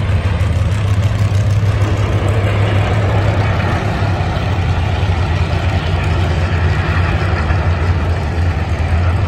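Several race car engines idling and running at low speed, a steady low rumble.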